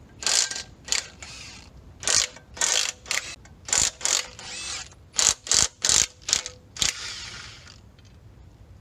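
Socket ratchet clicking in about a dozen quick strokes, in uneven bursts, as the clutch bolts are worked loose from the engine. The strokes stop about a second before the end.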